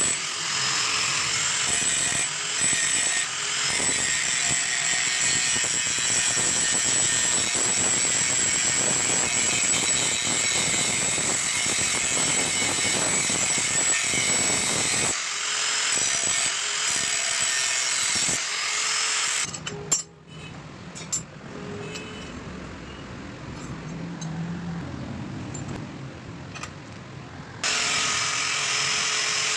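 A power tool running steadily on metal, with a high whine. About twenty seconds in it gives way to a quieter stretch with a few knocks, and after about eight seconds the steady running resumes.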